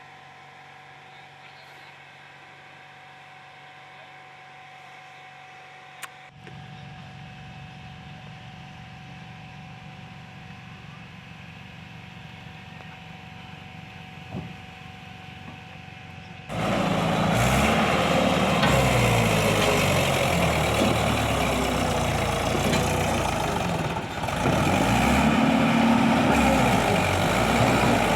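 JCB 3DX backhoe loader's diesel engine running, steady and fairly quiet at first, then suddenly much louder about two-thirds of the way through as the machine works.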